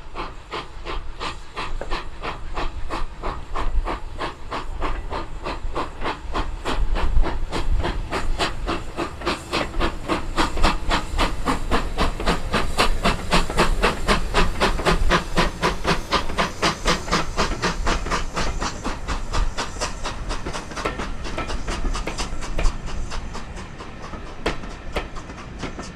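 Steam locomotive working a train: a fast, even run of exhaust beats with steam hiss over a low rumble, easing off near the end.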